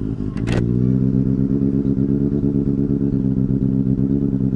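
Benelli 600i's inline-four engine idling just after being started, settling to a steady idle within about a second. There is a short sharp sound about half a second in.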